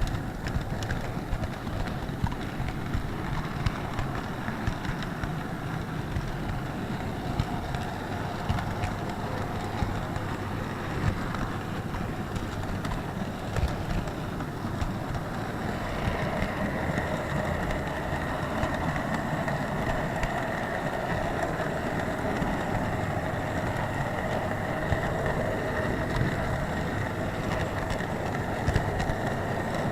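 HO-scale model train running on its track, heard close up from a wagon it is carrying: a steady rumble with scattered clicks from the wheels, joined about halfway by a steady motor whine.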